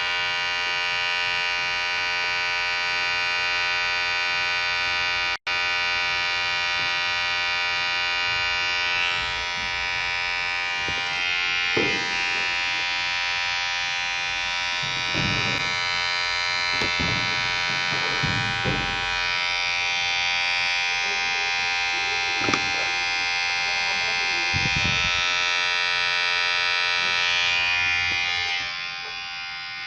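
Vibrating electric hair clipper running with a steady buzz. It cuts out for an instant about five seconds in. Through the middle the tone wavers, with several short bumps, and it drops in level near the end.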